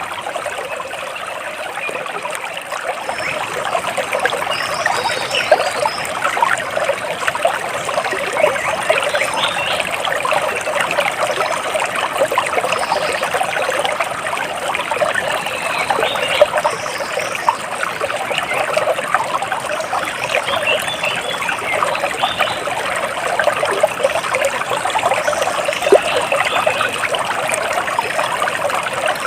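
Splashing, trickling water running steadily, with faint high bird chirps now and then.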